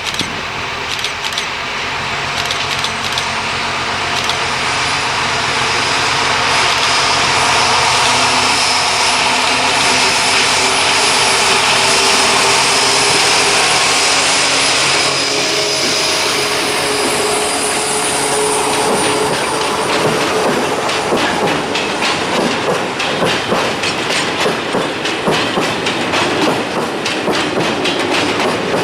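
T448p diesel-hydraulic shunting locomotive running past with its engine growing louder, then a train of empty hopper wagons rattling by. About halfway through, the engine gives way to rapid clickety-clack of wheels over rail joints and the clanking of the empty wagons.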